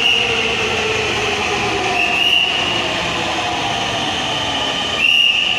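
Metro train running, a steady rumble of wheels and motors with a high whine or squeal that rises in about two seconds in and again near the end.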